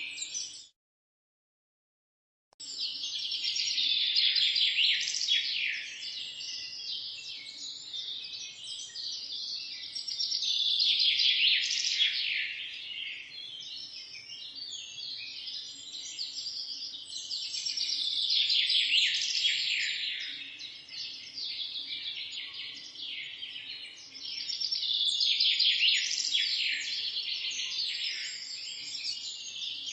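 Many birds chirping and singing together in a dense high chorus that swells and fades in waves about every seven seconds. The sound cuts out completely for about two seconds near the start.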